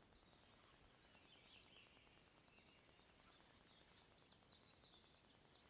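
Near silence, with faint bird chirps coming and going.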